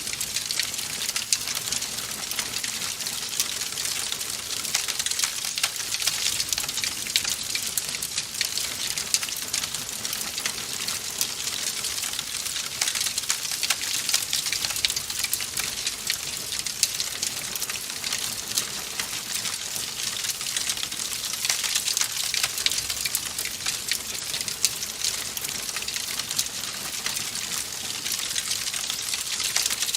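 Wood fire crackling in a fireplace: a steady hiss of dense, rapid small pops and snaps with no pause.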